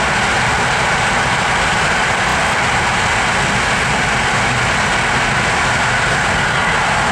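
Steady running noise of an InterCity passenger train under way, heard from inside the carriage, even and unbroken throughout.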